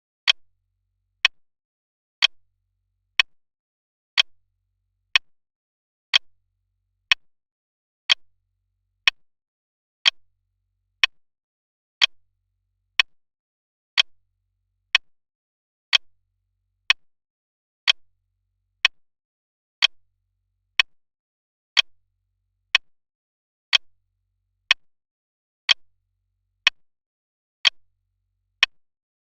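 Clock ticking sound effect: single sharp, evenly spaced ticks about once a second with silence between, starting a moment in.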